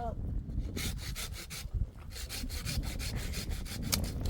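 Hand saw cutting wood with quick back-and-forth strokes: a short run, a brief pause, then a longer run of about six strokes a second.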